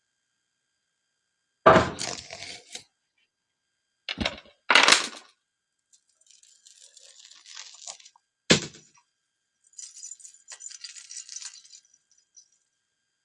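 Dishes and utensils being set down and shifted about, giving four sharp knocks and clatters with light crinkling and scraping in between.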